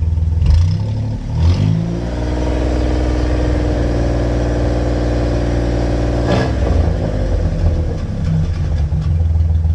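Warmed-up truck engine idling, then revved about a second in and held at a higher, steady speed for about four seconds before dropping back to idle near six seconds in. The hang at raised revs is the sign of a slightly sticking throttle cable.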